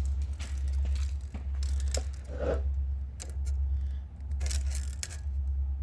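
Handling sounds: a string of clicks, rattles and scrapes as a tape measure and pieces of cut steel are picked up and moved, over a steady low hum.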